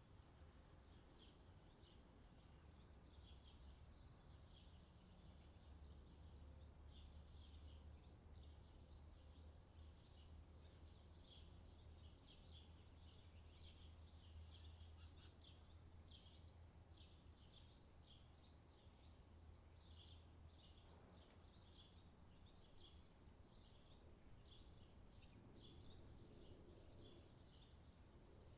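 Faint, busy chirping of small songbirds, many short high notes overlapping, over a low steady rumble.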